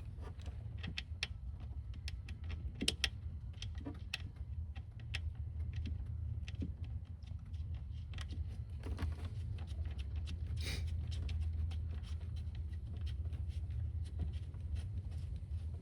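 Scattered small metallic clicks and taps as a bolt is worked into place by hand in a car's engine bay, over a steady low hum.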